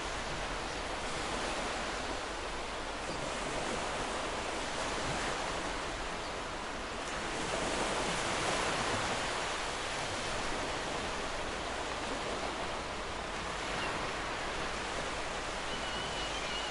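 Ocean waves washing onto a shore: a steady rush of surf that swells a little louder about halfway through as a bigger wave breaks, then settles back.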